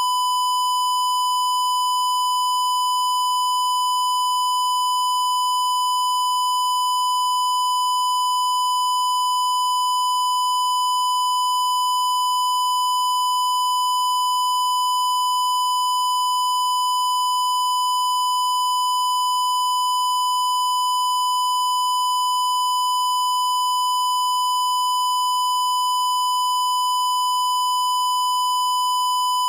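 A continuous electronic tone, high-pitched and held at one pitch without a break or change, with a buzzy edge from fainter overtones above it.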